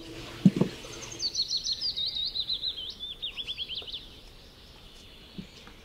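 A dull double knock about half a second in, then a songbird singing a fast run of short downward-sliding notes for about three seconds, the run falling gradually in pitch.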